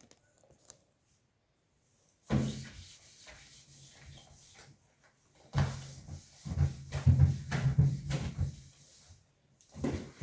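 Refrigerator's outer casing being wiped and scrubbed by hand, uneven stretches of rubbing and knocking strokes, busiest in the second half.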